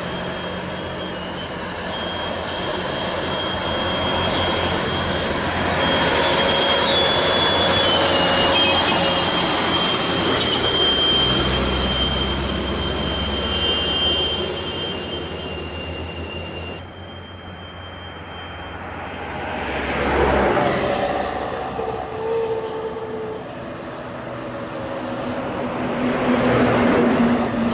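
Heavily loaded truck's diesel engine labouring uphill, with a thin high whine over it for much of the time. About two thirds of the way through the sound changes abruptly, then swells twice as the engine works harder.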